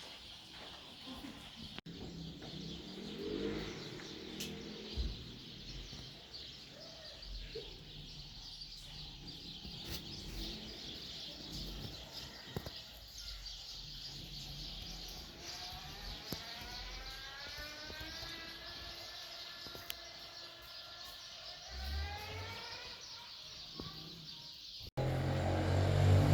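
Small birds chirping steadily. In the second half a drawn-out, several-toned sound rises slowly in pitch for about eight seconds.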